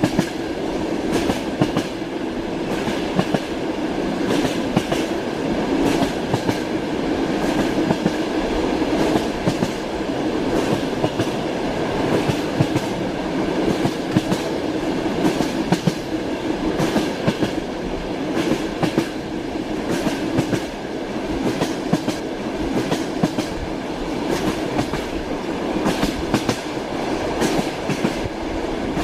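Moving train: wheels clacking over the rail joints in repeated groups over a steady rolling rumble.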